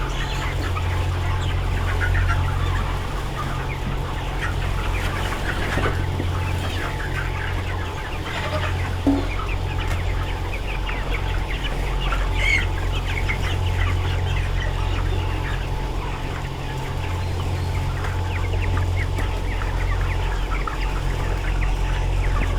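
A large flock of broiler chickens clucking and calling continuously, many short overlapping calls, over a steady low hum.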